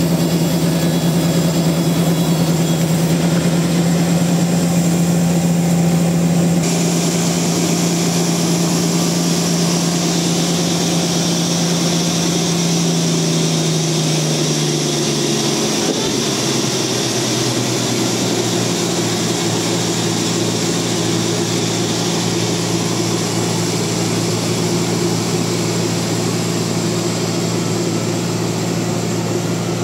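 Large sawmill machinery running with a loud, steady hum. A high hiss joins about a fifth of the way in. Around the middle the hum slides down to a lower pitch and holds there.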